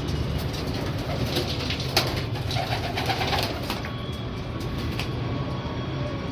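Domestic pigeons cooing, with scattered short clicks and rustles among them, busiest in the first half.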